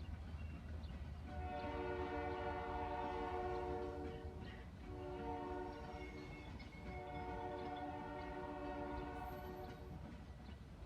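Diesel locomotive air horn sounding a chord in three blasts, long, short, long, over the steady low rumble of the locomotive and train.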